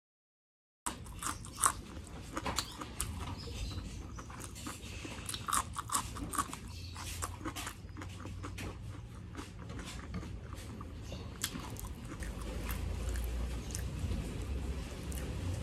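Close-miked eating: chewing and crunching a mouthful of okra and fried rice, with many sharp wet clicks and crackles. The sound drops out completely for about the first second.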